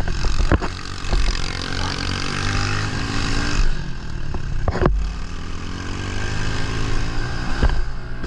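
110cc pit bike engine running hard on a woods course, its pitch climbing and easing off twice as the throttle is worked. A few sharp knocks break through, the loudest about five seconds in.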